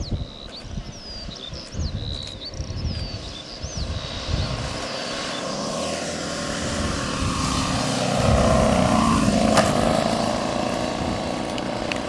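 Giant-scale RC Transall C-160 model flying past, its propeller drone growing louder and dropping in pitch as it passes, loudest about eight to nine seconds in. Wind buffets the microphone and birds chirp in the first few seconds.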